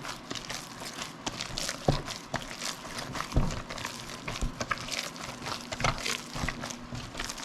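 Ground sausage meat with cheese chunks being mixed: irregular wet squishing and crackling, with two louder thumps about two and three and a half seconds in.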